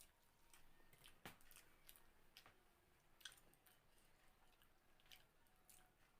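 A person chewing food quietly, with faint scattered clicks and smacks of the mouth; two sharper ticks stand out, about a second in and about three seconds in.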